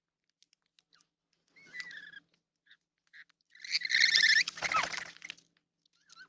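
Birds calling: a short call about one and a half seconds in, then a louder, longer run of quickly repeated notes from about three and a half to five and a half seconds in.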